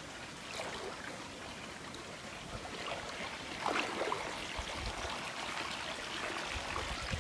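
Small creek trickling and bubbling over rocks, a steady wash of running water.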